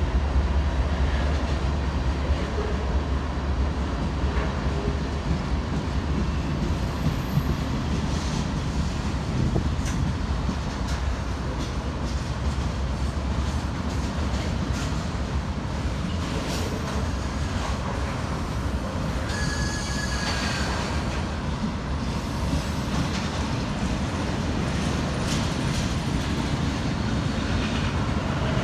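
CN freight train rolling past: a steady heavy rumble of steel wheels on rail with scattered clacks over the joints, and a brief wheel squeal about twenty seconds in.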